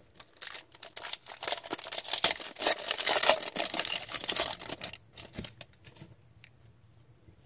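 Hockey trading cards and their packaging being handled: dense crinkling and rustling for about five seconds, then only a few faint clicks.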